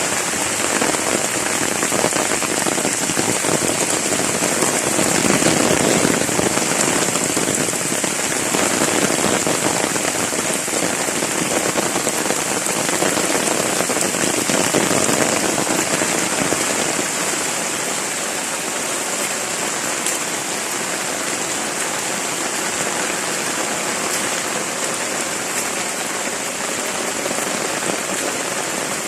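Heavy rain falling steadily, a dense continuous hiss of drops that swells a little at times.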